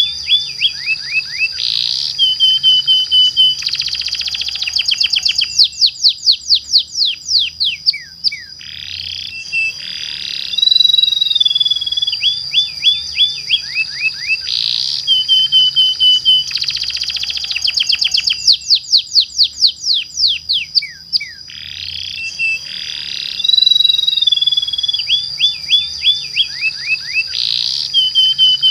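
Domestic canary singing a long, continuous rolling song. Fast trills and quick falling sweeps run over a sustained high note. The same phrase sequence comes round about every ten seconds, like a looped recording.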